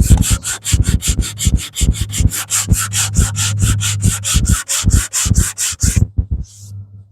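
Hand sanding block being stroked back and forth over body filler on a car body panel, a quick, even rhythm of about five scraping strokes a second that stops about six seconds in: the filler repair being blocked smooth.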